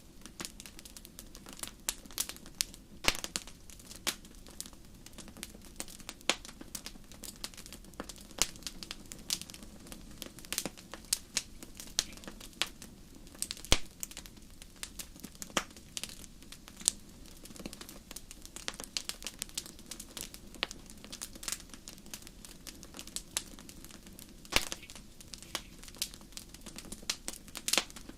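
Wood fire in a fireplace crackling, with irregular sharp pops of varying strength over a soft, steady low rumble of the flames.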